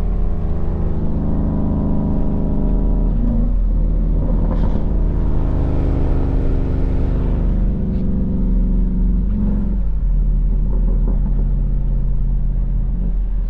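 Loud, steady exhaust drone of cruising cars, with small rises and dips in pitch as the engines vary, heard from inside a car.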